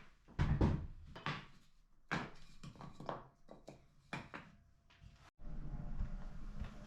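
Scattered knocks and clunks of work handling, several separate hits over the first five seconds, then a steady low hum that starts abruptly after a brief dropout.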